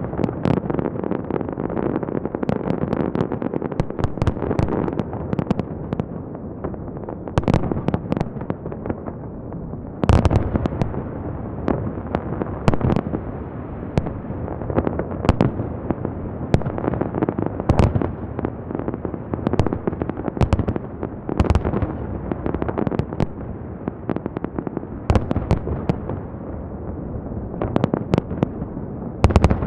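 Festive fireworks salute going off: many sharp bangs and crackles over a continuous rumble of bursts, with one especially loud burst about ten seconds in.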